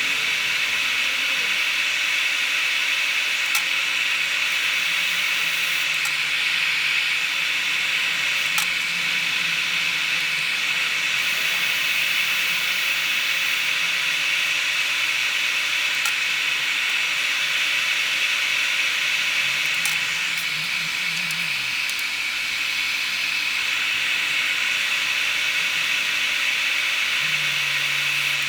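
Hot air rework station blowing a steady hiss while solder on a circuit board is reflowed, with a few faint ticks.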